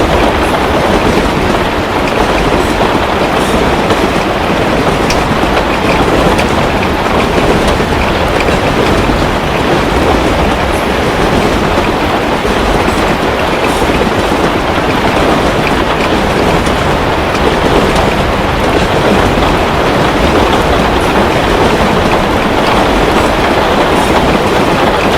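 Steady heavy rain, with faint scattered crackles and pops from a wood fire.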